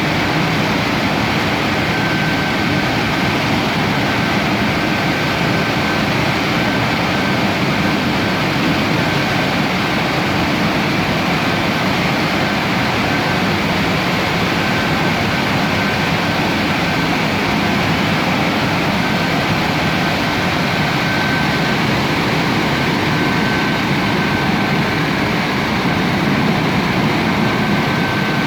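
Automatic car wash machinery running with a steady rushing noise, and a faint high whine that comes and goes.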